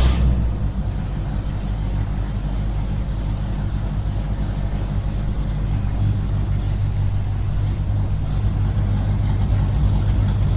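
Small engine running steadily at a constant speed, giving an even, low-pitched drone.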